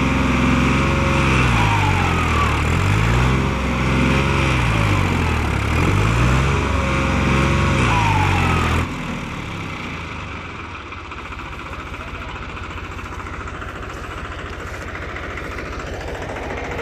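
New Holland 3600-2 tractor's three-cylinder diesel engine revving hard, rising and falling in repeated surges as it strains to pull a loaded trolley out of mud. About nine seconds in the revs drop suddenly and it settles to a steadier, quieter run.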